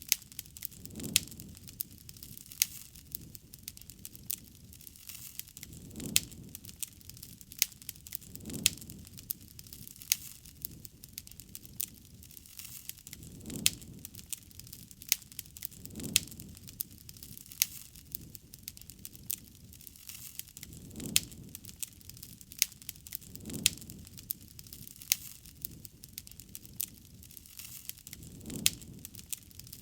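Campfire burning with constant crackling and frequent sharp pops of the burning wood. A soft low rush swells and fades about every two and a half seconds underneath.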